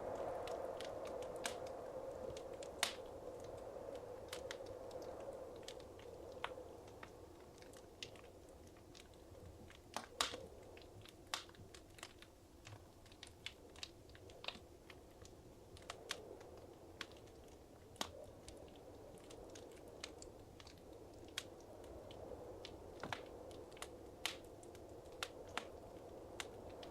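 Wood fire crackling in a fireplace: irregular sharp pops and snaps over a soft hiss of flames.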